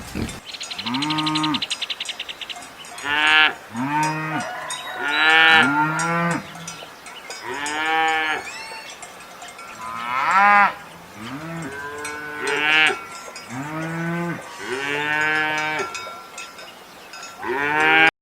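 Livestock calling over and over, about ten short calls that each rise and fall in pitch, with a fast, even rattle in the first two seconds.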